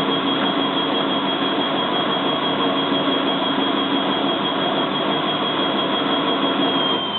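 Bosch WFF2000 washing machine spinning its drum at speed, a steady high motor whine over the rushing drum noise. Near the end the whine starts to fall in pitch as the spin winds down before the first rinse.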